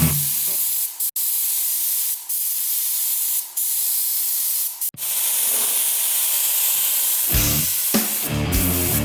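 Compressed-air paint spray gun hissing steadily as it lays down polyester filler primer, with two brief breaks, about one and five seconds in. Rock music plays at the start and comes back near the end.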